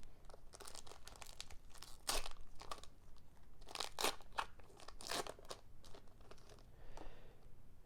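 Foil wrapper of a Pokémon card booster pack crinkling and being torn open, a run of short, irregular crinkly crunches and rustles.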